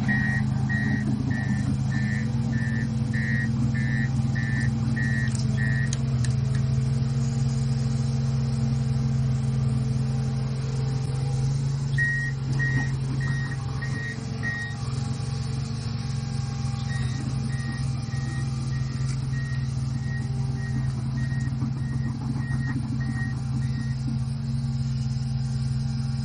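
Vehicle engine running steadily while a reversing alarm beeps about twice a second, in three spells, the last one fainter.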